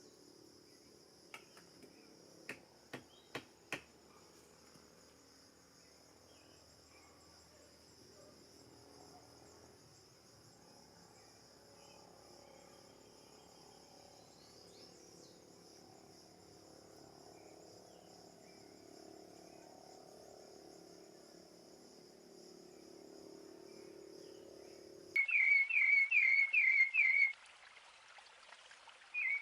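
Steady chorus of crickets or other insects in woodland, with five sharp clicks early on. About 25 s in, after a cut, a bird calls a quick series of about five short falling notes, the loudest sound here.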